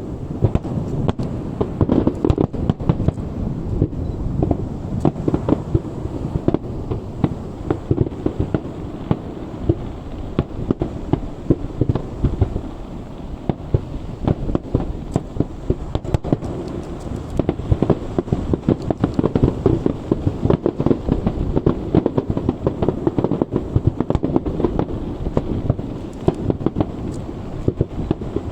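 Aerial fireworks show: a continuous barrage of shell bursts, many bangs a second overlapping into a steady rumble.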